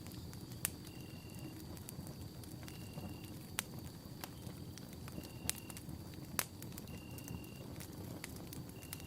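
Campfire burning: a steady low rumble of flames with sharp pops and crackles of burning wood, the loudest a few seconds apart. A faint high tone runs underneath, and a short high beep-like tone repeats about every two seconds.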